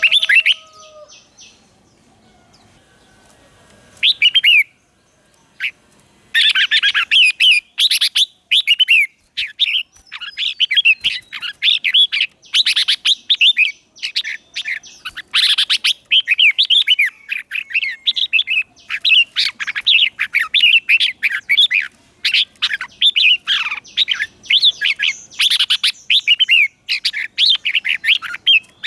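Red-whiskered bulbul song: a single short call about four seconds in, then from about six seconds on a fast, unbroken run of quick warbling, chattering notes.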